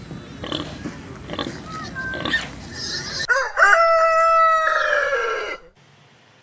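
Pigs grunting, then a rooster crows once: one loud, drawn-out call of about two seconds that drops in pitch at its end.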